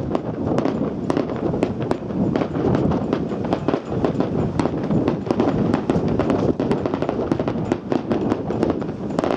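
Fireworks display going off: a rapid, continuous run of crackling pops and bangs over a steady low rumble of wind on the microphone.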